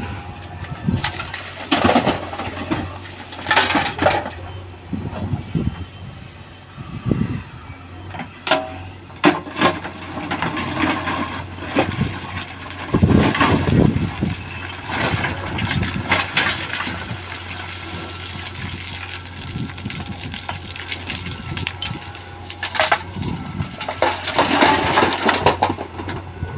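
Heavy machinery running with a steady low engine hum, broken by repeated irregular clattering and thuds, as of stones being loaded by a JCB loader.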